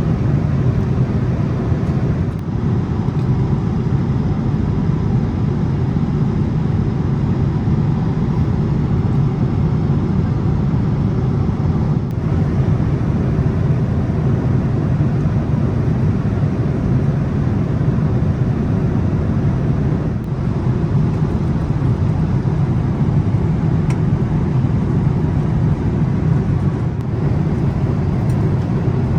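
Boeing 787-8 cabin noise in cruise: a steady, low rumble of engines and airflow.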